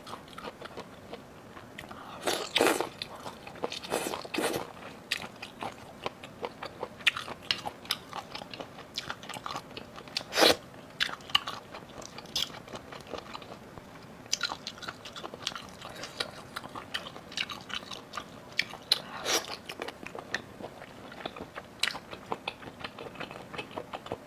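Close-miked eating: a person biting and chewing food, with many small wet mouth clicks and several louder crunches.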